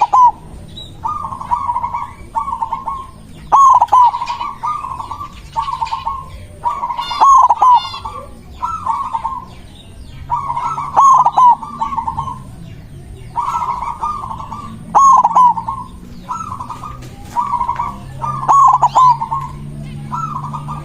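White zebra dove (perkutut) singing its rhythmic, staccato cooing song in phrases that repeat every couple of seconds. High-pitched chirps sound over it.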